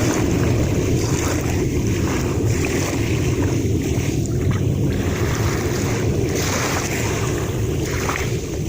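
Sea waves washing, with wind blowing over the microphone as a steady low rumble.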